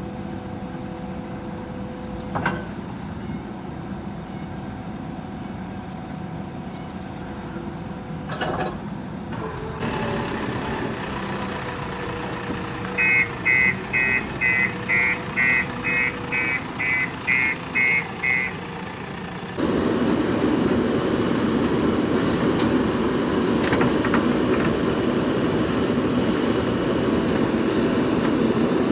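JCB backhoe loader's diesel engine running at low revs, with a couple of clicks; about halfway through, a reversing alarm beeps about twice a second for some five seconds, then the engine is revved up and runs louder and harder under work.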